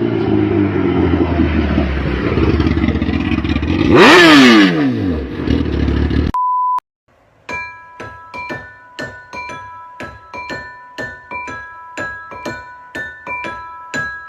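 Motorcycle engine running with its pitch falling, then a loud burst of noise about four seconds in. The engine cuts off into a short steady beep tone, and after a brief gap light marimba-like music notes play at about two a second.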